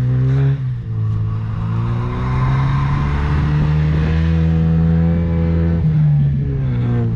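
A car engine revving hard and held at high revs through a snow drift, dipping briefly about a second in and dropping off near the end.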